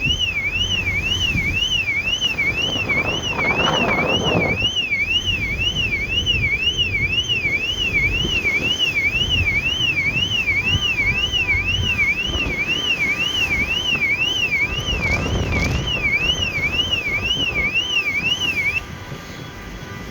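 Electronic alarm siren warbling up and down at about two sweeps a second, over a steady low rumble; it cuts off suddenly about 19 seconds in.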